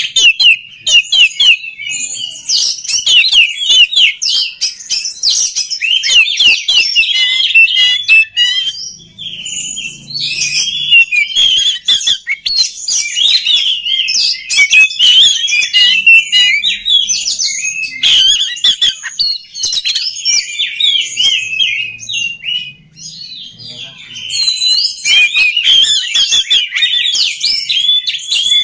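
Oriental magpie-robin singing a fast, continuous song of quickly varied chirps, whistles and sharp notes, with short breaks about nine seconds in and again near 23 seconds.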